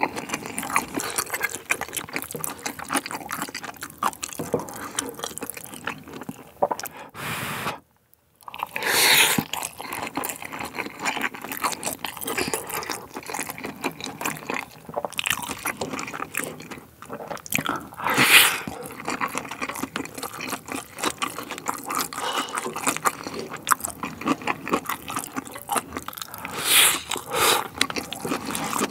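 Close-miked wet chewing and mouth sounds from eating spicy stir-fried pork tripe coated in melted raclette cheese, a dense run of small smacks and clicks with a few louder wet bursts. Near the end a wooden spoon scrapes across the metal griddle tray. The sound cuts out briefly about eight seconds in.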